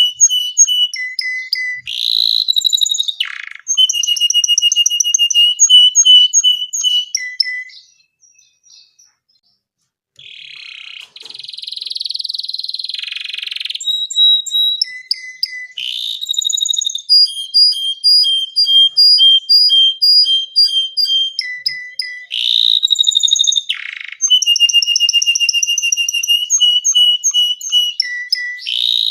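Domestic canary singing a long song made of rapid trills, each a run of the same short high note repeated many times, with each run switching to a new pitch. The song stops for about two seconds near the first third. It then resumes with a harsh, rasping passage before the clear trills return.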